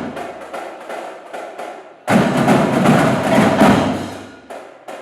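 Marching drum line playing: rapid snare-drum strokes and sharp stick clicks. A loud new phrase comes in about two seconds in and tapers off.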